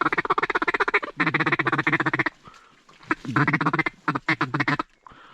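Mallard duck call blown in a rapid feeding chuckle, about a dozen quick notes a second, in two long runs with a short break between them, to work ducks banking toward the decoys.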